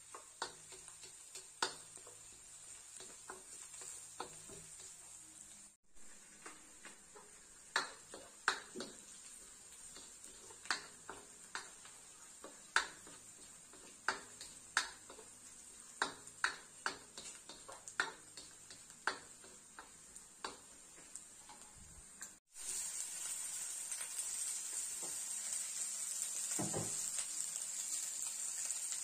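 Chopped onions and garlic sizzling in oil in a stainless steel wok, stirred with a plastic spatula that taps and scrapes against the metal many times. About two-thirds of the way through, the sizzle becomes louder and steady as raw chicken pieces fry in the wok.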